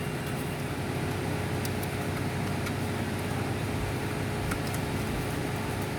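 Steady low hum of an idling car engine, heard from inside the car, with a few faint ticks.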